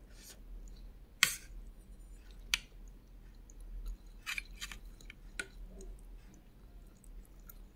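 Close-up eating: moist chewing of fried egg and tomato, with sharp clicks from the mouth. The loudest click comes about a second in, another follows a second later, and a quick cluster of clicks falls near the middle.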